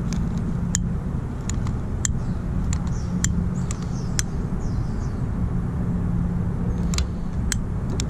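Strong wind buffeting the microphone, a steady rumble, with sharp clicks at irregular spacing, about one or two a second.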